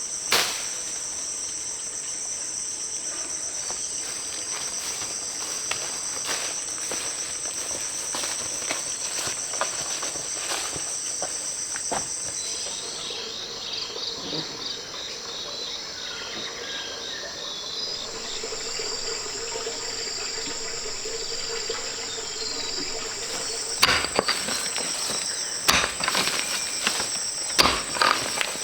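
Insects trilling in a steady high-pitched chorus, with a pulsed chirping joining for a few seconds midway. Several sharp knocks ring out over the last few seconds.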